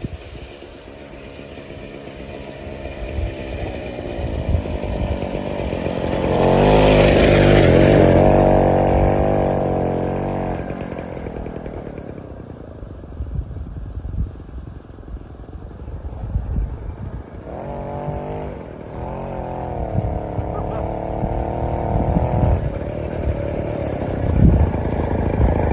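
Single-cylinder two-stroke engine of a Motobécane Mobylette AV76 moped running, with two stretches where it rises to a louder, higher pitch for a few seconds each: about six seconds in (the loudest) and again past the middle.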